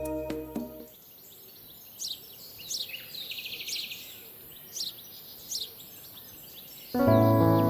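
A songbird singing: several short, high, downward-sweeping notes and a quick trill about three seconds in. Background music fades out at the start and comes back near the end.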